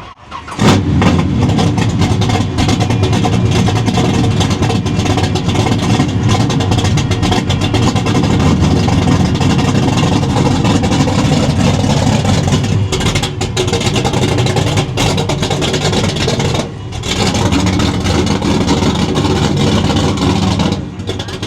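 1971 Chevrolet Chevelle SS V8 starting up about half a second in, then running loud with the revs rising and falling, the level dipping briefly twice.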